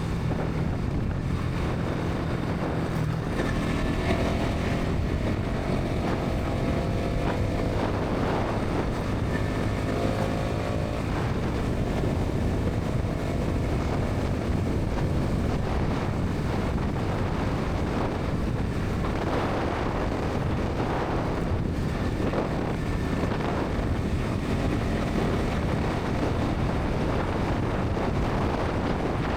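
Bajaj Pulsar NS 200 single-cylinder engine and exhaust running at highway speed, under heavy wind noise on the microphone. The engine note climbs twice between about 3 and 11 seconds in.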